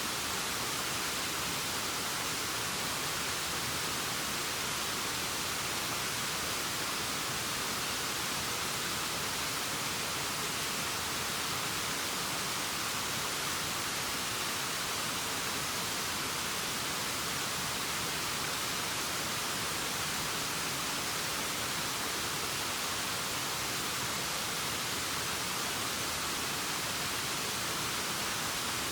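Waterfall rushing in a steady, unbroken hiss, heavier in the high pitches than the low.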